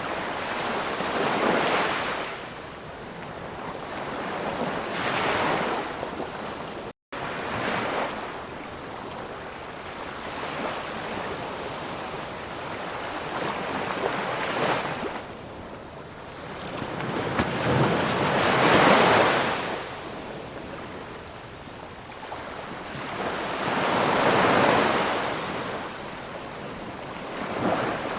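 Ocean surf, waves washing in and drawing back in slow swells that rise and fall every few seconds. The sound cuts out for an instant about seven seconds in.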